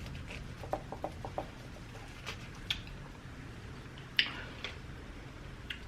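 Scattered light clicks and taps of cutlery against a plate while cutting food, with a sharper tap about four seconds in.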